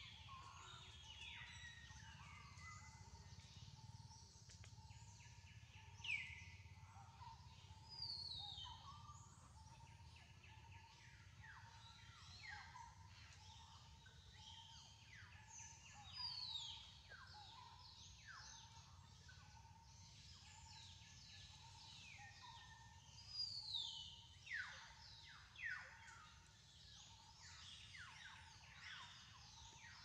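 Faint bird calls: repeated high whistles that slide downward, coming in scattered bouts and loudest in a cluster near the end, over a low steady hum.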